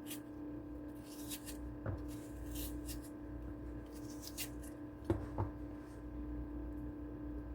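A knife cutting onion: a few scattered crisp cuts, with light knocks about two and five seconds in, over a steady low hum.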